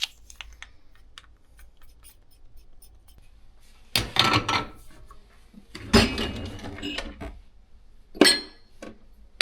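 Kitchen clatter of dishes, cups and utensils being handled while making coffee: light clicks and taps, then three short bursts of clattering about four, six and eight seconds in.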